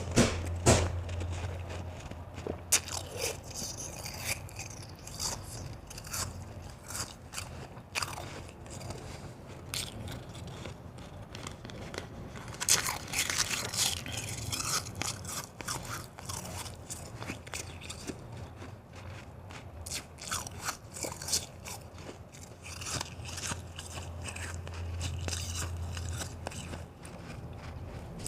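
Close-up crunching of hard white ice being bitten and chewed, with repeated sharp cracks and loud clusters of crunches near the start and about halfway through.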